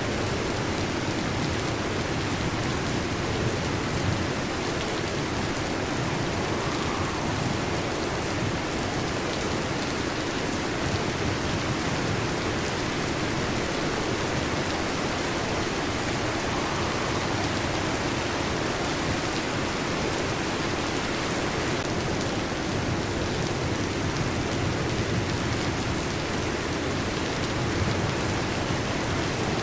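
Heavy rain falling steadily on a metal roof, an even, unbroken hiss of many drops.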